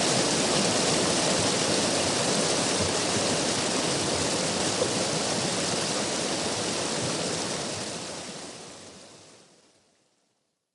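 River water rushing in a steady, full wash of noise, fading out over the last few seconds until it is gone.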